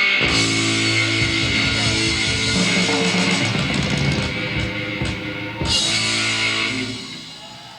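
Live rock band of electric guitars, bass and drum kit playing loudly, with a big hit about five and a half seconds in. The sound then dies away near the end as the song finishes.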